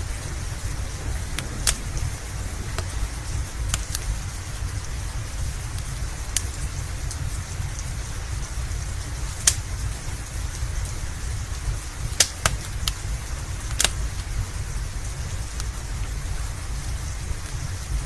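Steady rain with a low rumble under it, mixed with a wood fire crackling: a dozen or so sharp, scattered pops over the hiss.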